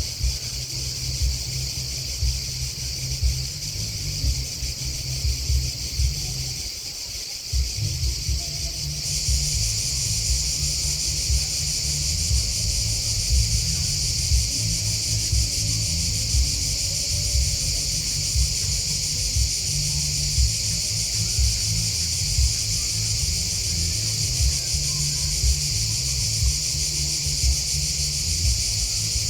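Grasshoppers and crickets chirping in a steady, high-pitched chorus that grows louder about a third of the way in, over a low, uneven rumble.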